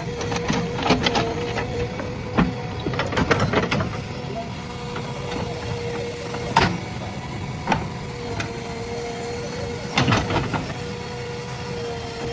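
JCB 3DX backhoe loader's diesel engine running with a steady hum, broken by sharp knocks and clanks several times, a few seconds apart.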